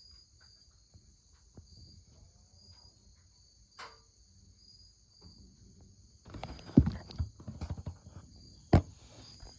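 Insects chirping steadily in a high, pulsing drone. In the second half come rustling and several knocks, the loudest about seven and nine seconds in, with no engine running.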